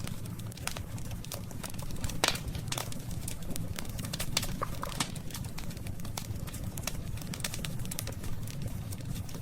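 Wood campfire burning: irregular sharp crackles and pops of the burning wood over a steady low rumble, with one louder pop about two seconds in.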